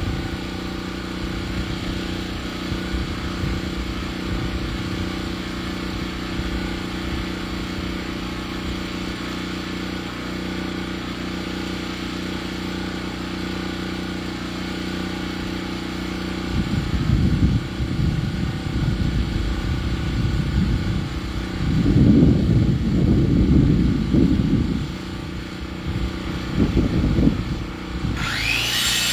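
An engine runs steadily at idle, with heavier irregular rumbling from about halfway in. Near the end a high whine rises sharply and holds, as a saw spins up to cut wood.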